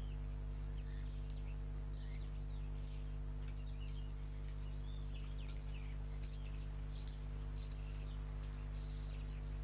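Small garden birds chirping and twittering in many short, quick calls, over a steady low hum.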